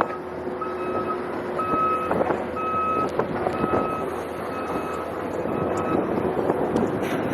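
Vehicle backup alarm beeping six times, about once a second, then stopping, over a steady background of noise.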